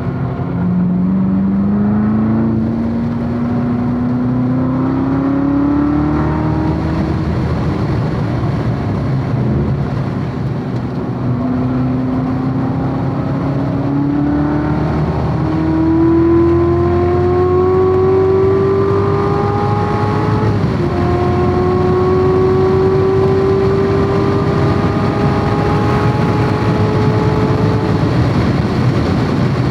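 Corvette C7 Z06's supercharged 6.2-litre V8 at hard throttle on track, its note climbing steadily through long pulls. A quick upshift a bit past two-thirds of the way through drops the pitch before it climbs again, over steady wind and tyre noise.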